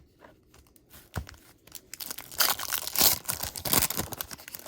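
A trading card pack wrapper crinkling and tearing open in dense crackling rustles from about two seconds in, after a single small click.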